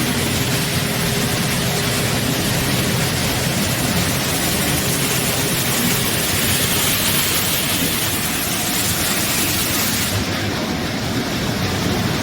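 HOMAG Optimat BOF 311 CNC woodworking machining centre running, a loud steady rushing noise with a faint held tone; the hiss in the highest range drops away about ten seconds in.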